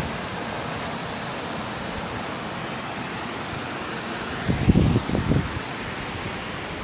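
Steady rush of a river cascading over a waterfall. A few low thuds come about four and a half to five and a half seconds in.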